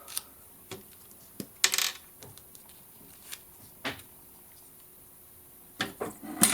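Scattered small taps and clicks of paper crafting materials and tools being handled on a work table, with a brief rustle about one and a half seconds in and a cluster of clicks near the end.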